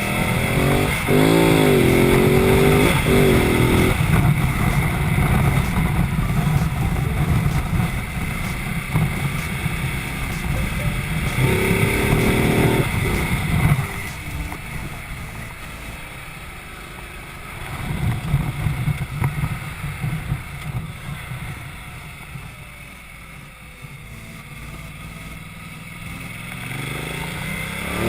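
Ducati Multistrada motorcycle engine under way, its pitch rising through the revs a few times as the rider accelerates, over a steady rumble of wind and road noise. It runs quieter for a stretch in the second half.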